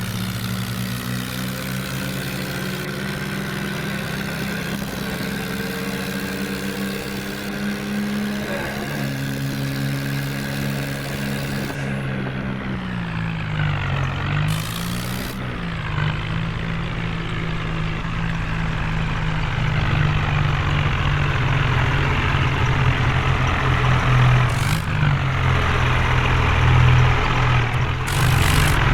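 Heavy diesel engine running steadily, its revs sagging briefly about fourteen seconds in and then picking up, growing louder over the last third.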